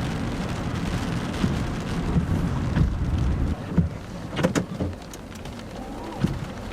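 Rain falling during a severe thunderstorm, a dense hiss with a low rumble and crackle that eases a little about three and a half seconds in, with a few sharp clicks about a second later.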